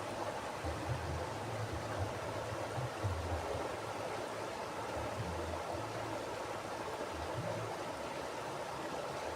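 Mountain river flowing: a steady rush of water over rocks, with uneven low rumbles that come and go underneath.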